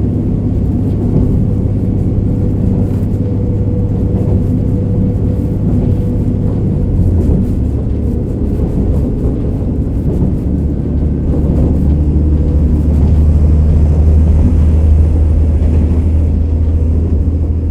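Interior running noise of a JR KiHa 47 diesel railcar under way: a steady low diesel engine drone mixed with wheel and rail noise, muffled by a recorder in a pocket. The engine note shifts about seven seconds in and again near ten seconds, then the sound swells louder before easing near the end.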